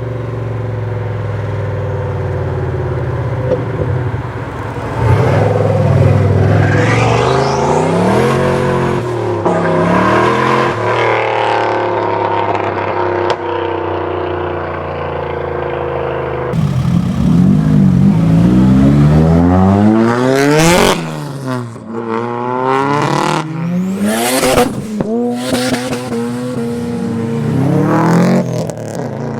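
Modified car engines accelerating and revving hard, the pitch rising and falling through the gears. About sixteen seconds in the sound changes abruptly to a car blipping its throttle in a series of sharp revs.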